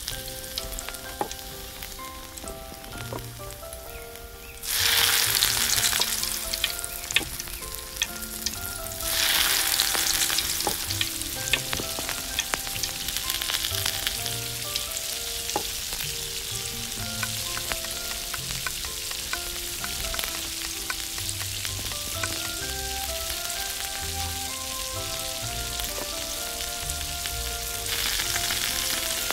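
Hot oil sizzling and crackling as food fries in a miniature pan. The sizzle jumps sharply louder about five seconds in and again about nine seconds in, then settles into a steady sizzle.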